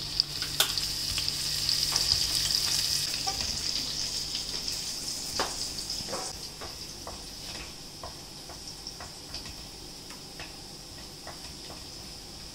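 Minced ginger and garlic sizzling in a tablespoon of hot oil in a wok, stirred with a wooden spatula that taps against the pan now and then. The sizzle is loudest in the first few seconds and dies down after about six seconds.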